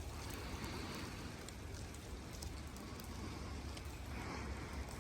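Steady crackling hiss of footsteps on a sleet-covered road, over a constant low rumble of wind and handling on the microphone.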